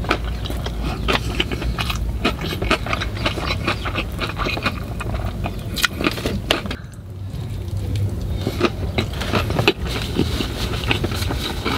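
Close-miked eating sounds: a person biting into and chewing food, with many small, sharp, wet clicks. A steady low rumble runs underneath.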